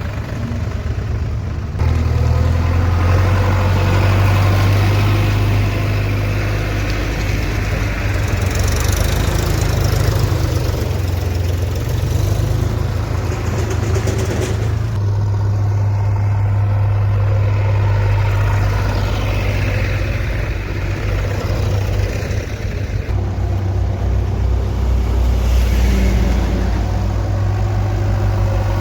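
Diesel engine of heavy machinery, a backhoe loader or farm tractor, running steadily. It gets louder about two seconds in, and its note shifts again around the middle and later on.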